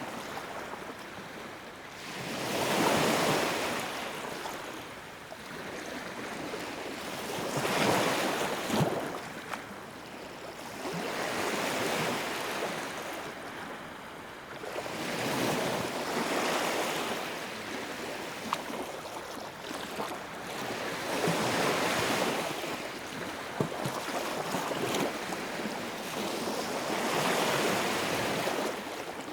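Wood fire in a fireplace: a rushing whoosh of flame that swells and fades every few seconds, with a few sharp crackles and pops.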